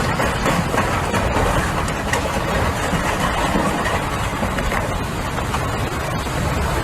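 Strong storm wind rushing over the microphone, a steady loud roar with a deep rumble underneath.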